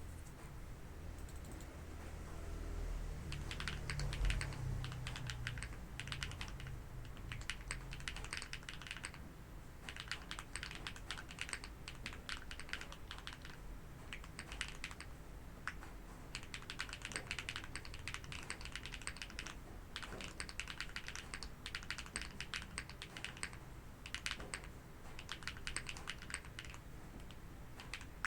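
Typing on a TKD Cycle 8 custom mechanical keyboard with HMX Green Apple switches, a plateless PCB, brass inner weight and no foam. Keystrokes come in quick bursts with short pauses, starting about three seconds in.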